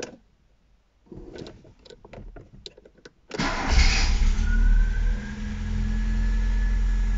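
Audi 80 S 1.8-litre four-cylinder engine with a freshly rebuilt Keihin 26/30 DC carburettor, started on the choke: a few light clicks, then it fires about three seconds in, catches at once and settles into a steady, even idle on the choke.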